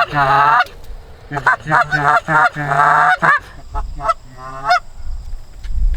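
Goose calling: loud, rapid runs of honks and clucks, a short run at the start and a longer one from about a second and a half in, trailing off into a few weaker calls by about five seconds.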